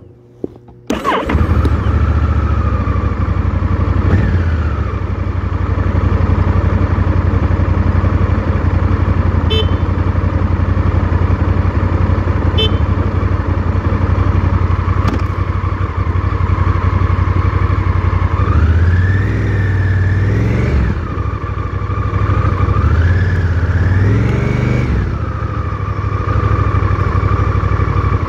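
Honda Rebel 1100's parallel-twin engine running at low speed, heard up close, cutting in abruptly about a second in. The engine note is steady, with a short rev about four seconds in and two longer rises and falls in revs about two-thirds of the way through as the bike pulls through slow, tight turns.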